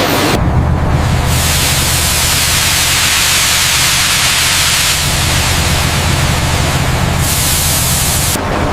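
Loud steady rushing hiss of spraying water over a low, even rumble.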